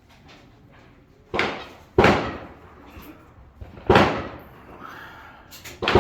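Gunshots: four sharp reports, the first just over a second in, then three more about two seconds apart, each with a short echoing tail.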